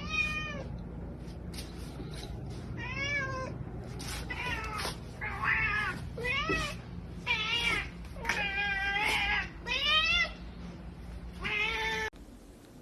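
A domestic cat meowing over and over, about nine calls with rising and falling pitch. Some are short, and one is long and drawn out.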